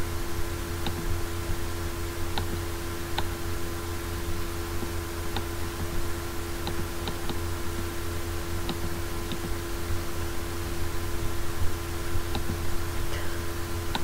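Computer mouse clicking now and then, about a dozen single sharp clicks spaced irregularly, over a steady electrical hum and hiss.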